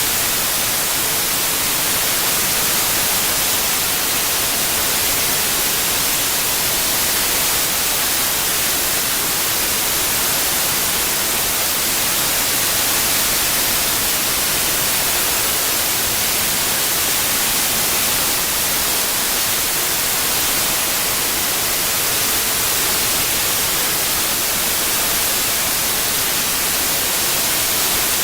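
Synthetic white noise: a steady, even hiss across the whole range, brightest in the treble, with no tones or events, played for tinnitus masking.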